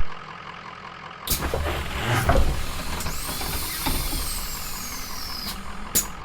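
Tram running, with a high thin squeal that glides slowly down in pitch for a couple of seconds, and a sharp click near the end.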